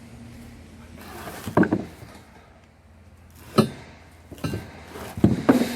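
A handful of sharp knocks and clanks, about five, the loudest near the end, one with a brief metallic ring: the anvil and its packing being handled during unpacking.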